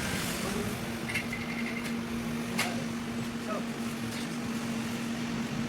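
A steady machine hum with a few light clicks and taps, one sharper click about two and a half seconds in.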